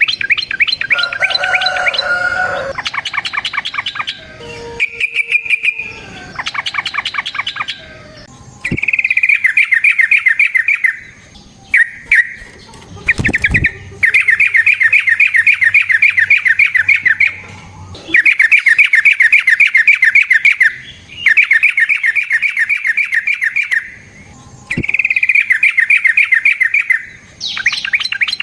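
Yellow-vented bulbul (trucukan) singing in repeated bouts of fast, chattering trills, each a few seconds long with short pauses between them. This is the long, rapid song that bird keepers call 'ropel'. A brief knock comes about halfway through.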